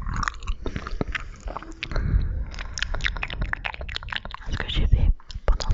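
ASMR mouth sounds: rapid, wet clicks and smacks of the lips and tongue, coming several times a second, with a short pause about five seconds in.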